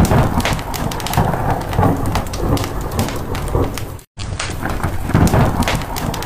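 Rain with low rumbling thunder, mixed with the sharp crackle of a wood fire. The sound cuts out completely for a moment about four seconds in, then resumes.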